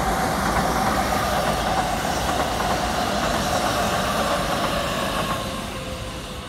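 Keikyu 1500 series six-car electric train passing close by: wheels running on the rails with a steady whine that drops slightly in pitch. The sound fades about five and a half seconds in as the last car goes past.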